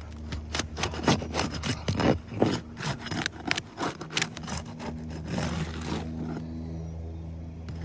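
Old asphalt roof shingle being pried loose from its seal strip with a hand tool: dense crackling and scraping, thinning out after about four seconds. A steady low hum runs underneath.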